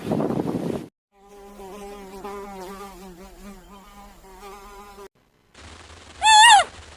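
Flying insect buzzing, a wavering hum lasting about four seconds. It follows the end of a louder, noisier animal sound in the first second. Near the end a single loud animal call begins, high and falling steeply in pitch.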